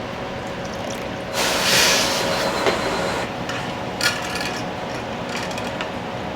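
Restaurant kitchen work over a steady hum of kitchen equipment: a hissing rush of about two seconds, then two sharp clinks.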